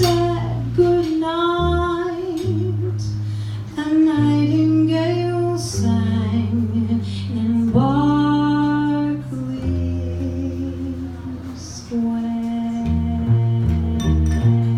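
Live jazz quintet playing a slow ballad: a held, wavering melody line over long sustained bass notes, with light cymbal touches. Near the end the bass starts moving note by note.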